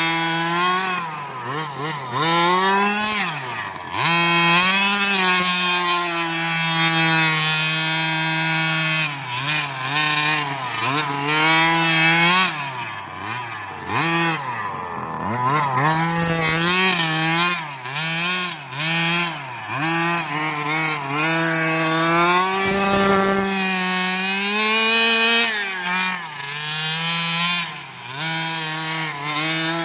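30cc two-stroke gas engine of a 1/5-scale Redcat Rampage XR Rally RC car, fitted with a JetPro tuned pipe, revving up and dropping back to idle again and again as the throttle is worked while the car drifts.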